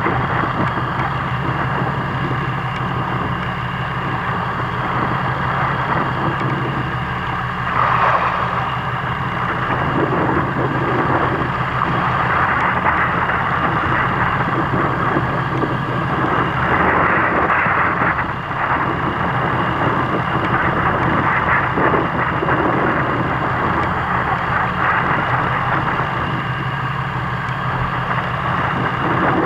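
Fishing boat's engine running steadily, with a constant low hum under the rushing noise of wind and water.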